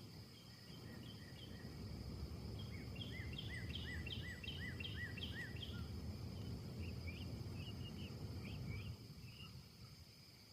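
Wind gusting in trees: a low rushing that swells after about a second and falls away near the end. Over it a small songbird sings a quick repeated series of chirps.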